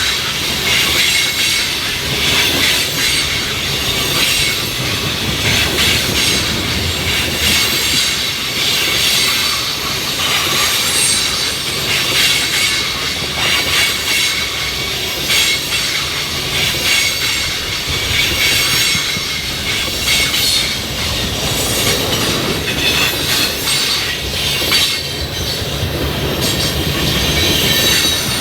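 Train cars rolling past at close range, steel wheels clicking over the rail joints with a high steady wheel squeal on top.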